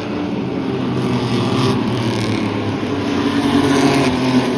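Engines of several Renegade-class race trucks running on a short oval track, a steady blended drone that grows a little louder about three seconds in.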